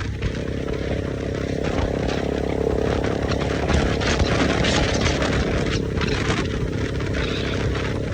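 Motorcycle engine running at a steady speed, a held engine note under wind rush.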